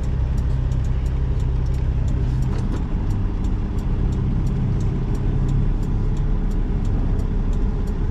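Semi truck's diesel engine running low and steady during slow maneuvering, with a light, fast, even ticking over the rumble.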